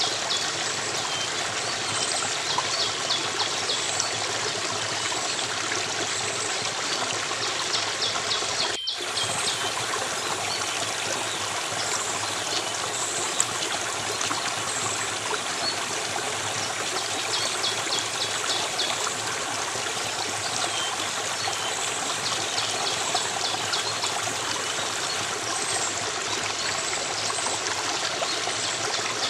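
Steady running water of a stream, with small birds now and then giving high, rapidly repeated chirping trills over it. The sound cuts out for an instant about nine seconds in.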